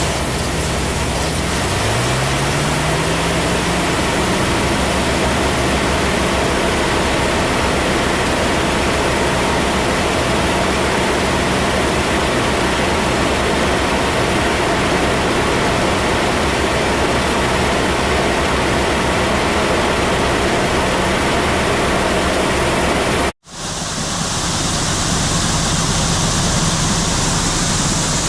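Soybeans pouring out of a grain truck into an auger, a loud steady rushing hiss. An engine or motor rises in pitch about two seconds in. The sound drops out for an instant near the end and comes back.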